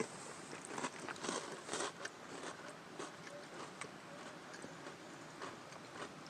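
Quiet crunching and chewing of snack food, with small clicks and rustles from handling the food. The crunching is densest in the first two seconds, then thins to scattered faint ticks.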